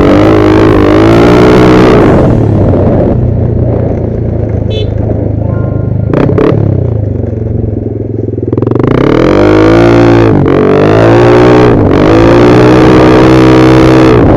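Yamaha Nmax scooter engine revving up and down while riding a rough trail, with the pitch rising and falling; it eases off for a few seconds in the middle, with a couple of sharp knocks, then revs up again about nine seconds in.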